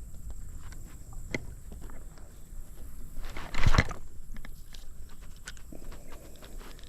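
Footsteps of a person walking over creek stones: a string of irregular clicks and knocks, with one louder burst of noise about three and a half seconds in.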